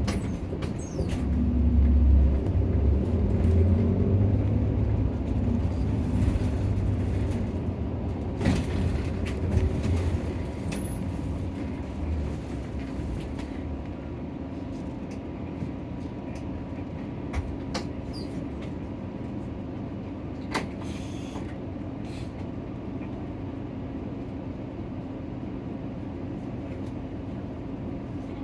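Nissan Diesel PKG-RA274KAN city bus heard from inside the cabin while driving: the diesel engine drones loudly for the first dozen seconds as the bus pulls along, then eases to a quieter steady run with road noise. A few short clicks and rattles come through near the middle.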